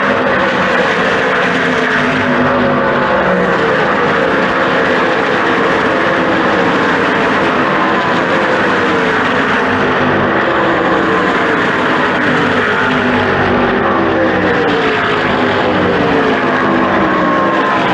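NASCAR Truck Series race trucks' V8 engines running at speed on the track, one truck after another passing by with its engine pitch dropping as it goes, in a loud, continuous drone.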